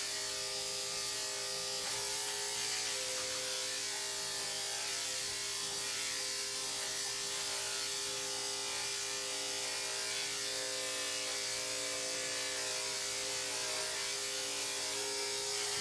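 Electric dog clippers with a number 7 blade running with a steady hum while clipping a dog's coat; the groomer judges the blade a little dull.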